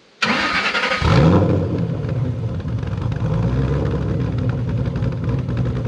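2010 Shelby GT500's cammed, supercharged 5.4-litre V8 being started: the starter cranks briefly, the engine catches about a second in with a short flare, then settles into a choppy cammed idle through long-tube headers and a 3-inch exhaust.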